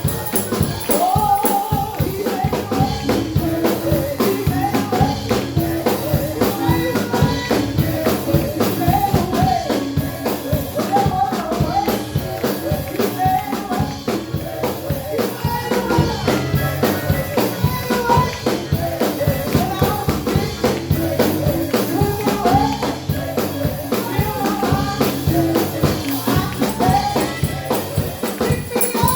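Live gospel praise music: a tambourine shaken in a fast, steady rhythm over drums and a wavering melody line.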